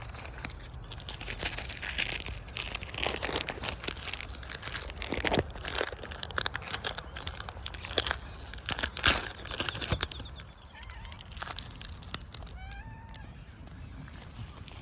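Cats crunching dry cat food: a dense run of irregular crackly clicks that thins out after about ten seconds. A short call that rises and falls comes near the end.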